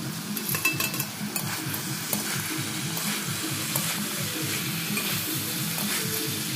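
Vegetables sizzling in a metal kadai as they are stirred and sautéed with a flat metal spatula, with a steady frying hiss and frequent short scrapes and clinks of the spatula against the pan.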